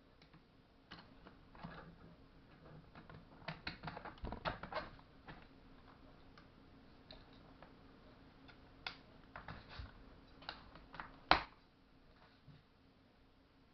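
Scattered light clicks and taps of small parts and tools being handled during the chainsaw rebuild, irregular and unhurried, with a cluster around four to five seconds in and one sharper knock about eleven seconds in.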